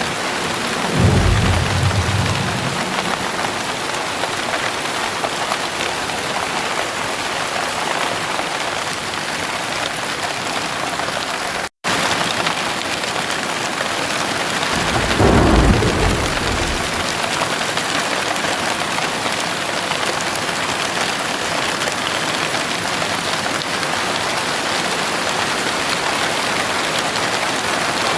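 Heavy rain pouring steadily, with two low rumbles of thunder, about a second in and again about halfway through. A split-second gap of silence just before the middle breaks the rain.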